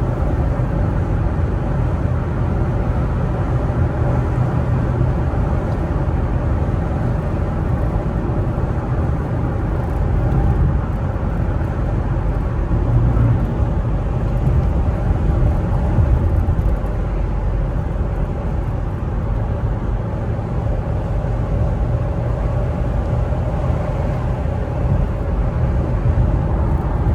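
Infiniti car cruising along: steady engine and road noise heard inside the cabin.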